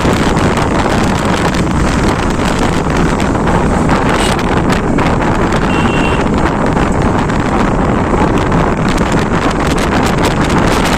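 Loud, steady wind rush and road noise on the microphone of a moving motorcycle.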